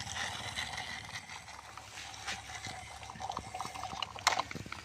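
Small electric motor and plastic gears of a remote-control toy tractor running with a faint steady whine, then scattered light clicks and one sharp click about four seconds in.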